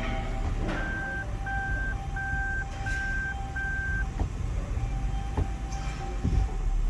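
Toyota Mark X's 4GR-FSE V6 engine idling, with five short evenly spaced electronic beeps about a second in: the in-cabin reverse warning as the automatic is shifted into reverse.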